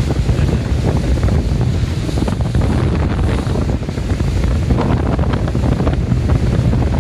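Small fishing boat's engine running steadily under way, a constant low hum, with wind buffeting the microphone and water noise.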